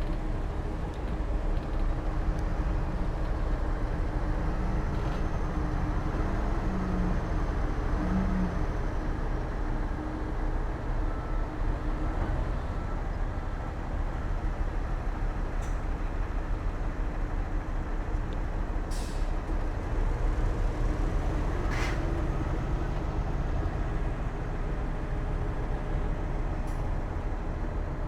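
Diesel engines of heavy earthmoving machinery running steadily with a deep rumble. Two short hisses come a few seconds apart, past the middle.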